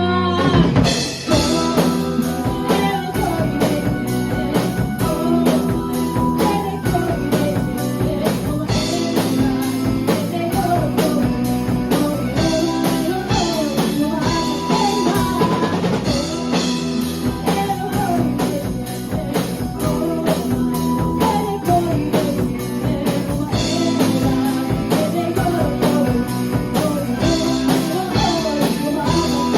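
A rock band playing: a drum kit keeping a steady beat under guitars, with a sung melody.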